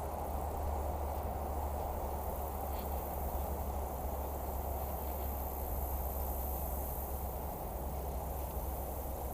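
Steady outdoor background noise: a low rumble and an even hiss, with a high, steady drone of insects.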